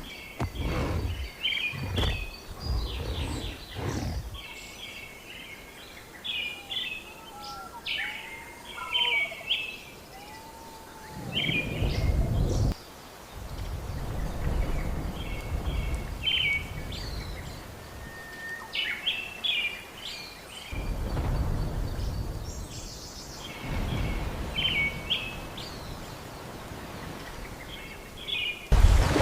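Rainforest ambience: birds chirping in short, rapidly repeated phrases throughout, with a few gliding calls about eight to ten seconds in. Bursts of low rumble come and go, the strongest about twelve seconds in, and a sudden loud rush of noise starts just before the end.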